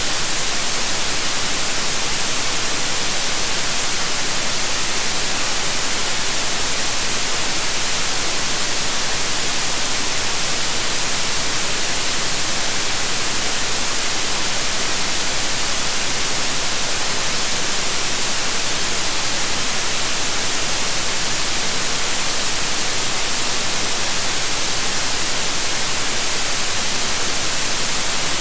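Steady electronic white noise: an even, unbroken hiss across the whole range, brightest in the highs, with no change in level.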